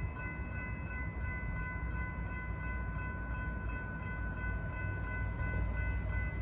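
Low, steady rumble of an approaching BNSF freight train's diesel locomotives, with a faint steady high-pitched tone above it.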